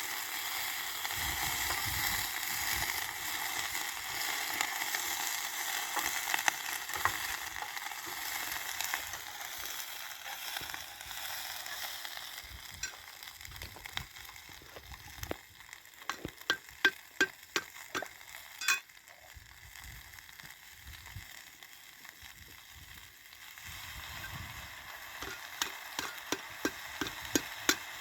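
Food sizzling and frying in hot oil in a pan. The sizzle fades after about twelve seconds, and runs of quick light taps follow in the middle and again near the end.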